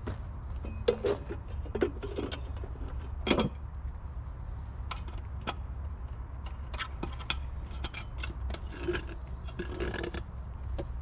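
Scattered clinks, knocks and scrapes of metal being handled, irregular and spread through the whole stretch, over a steady low hum.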